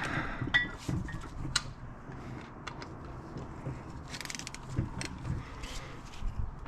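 Hand tools and metal engine parts being handled during an engine teardown: scattered light metallic clicks and clinks, some ringing briefly, with a quicker run of clicks about four seconds in.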